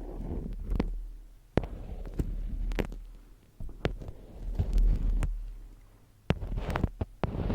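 Close-miked ASMR handling sounds: irregular sharp taps and clicks with bursts of rustling and scratching, over a steady low hum.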